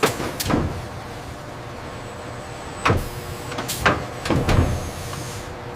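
Assembly-work clatter: a handful of sharp knocks and clunks, several bunched together a little before the end, over a steady factory hum.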